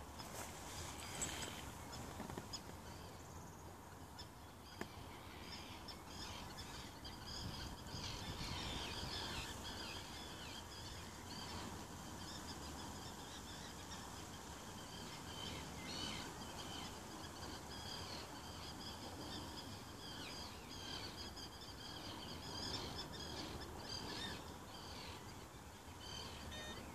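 Songbirds chirping and singing faintly in short repeated phrases over a low, steady outdoor background noise.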